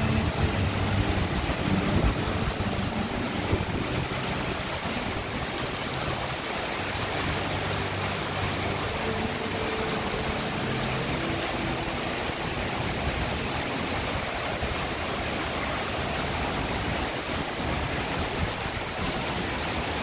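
Heavy rain pouring onto a canal's surface and a wooden deck, a dense, steady hiss. A faint low hum comes and goes underneath.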